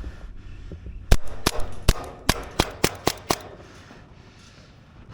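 Airsoft gun firing about eight single shots in quick succession, roughly three a second, starting about a second in and stopping a little past halfway.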